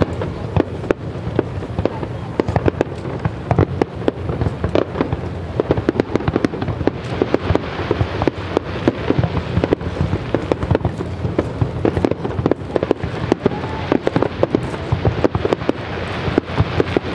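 Aerial fireworks shells bursting in rapid succession: a dense, unbroken run of overlapping bangs and crackles.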